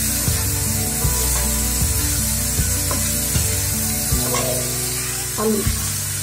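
Chopped onion, green chili and mixed vegetables sizzling as they fry in oil in a nonstick pan, stirred with a metal spatula, over background music with a steady beat.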